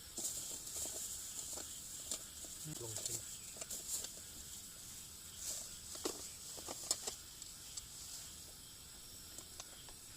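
Cooking pot and utensils clinking and knocking irregularly while food is handled for a camp soup, over a steady high hiss.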